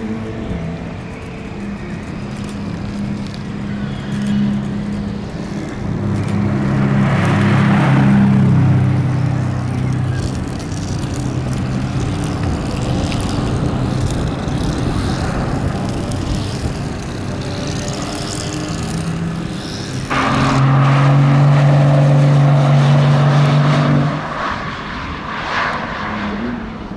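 High-performance car engines running and revving across several cuts, with a louder stretch a few seconds in and an abrupt, louder steady engine note from about two-thirds of the way through that drops away a few seconds later.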